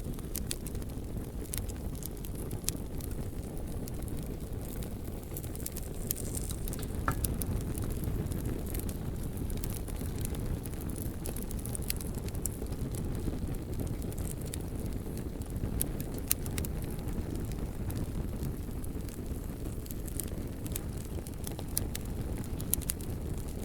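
Bonfire burning: a steady low rumble of flames with frequent sharp, irregular crackles and pops from the burning wood.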